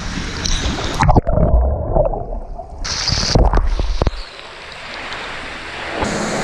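Water gurgling and sloshing against a phone's microphone as it goes under and comes up. The sound turns muffled and dull while the microphone is under, with sharp splashy bursts as it breaks the surface.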